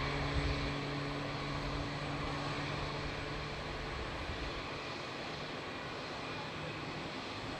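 Airliner engines heard as a steady rushing noise with a low hum; the hum fades a few seconds in while the rush carries on.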